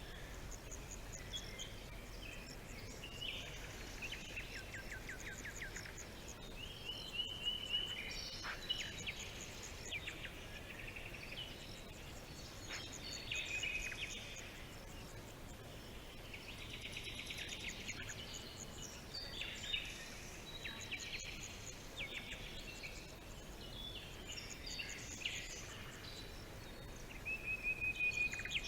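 Several birds singing and calling at once: overlapping trills, rapid chirp series and short whistled phrases, over a faint steady hiss.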